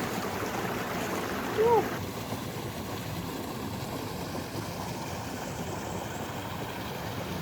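Steady rush of a mountain valley stream. A short vocal sound from a person is heard once, a little under two seconds in.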